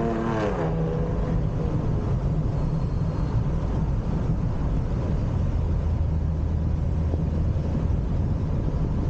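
Ripp-supercharged V6 of a Dodge Challenger running: its pitch drops off in the first second, then it settles into a steady low drone.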